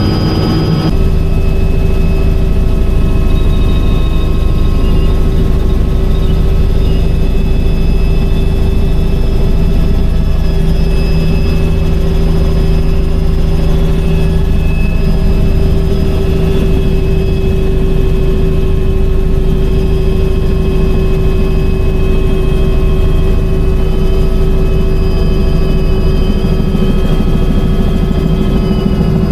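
Helicopter in flight heard on board: a loud, steady drone of rotor and turbine with several constant whining tones over it.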